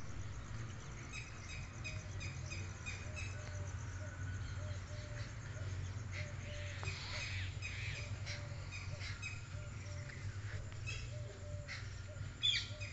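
Birds chirping in rapid series of short, repeated calls over a steady low rumble.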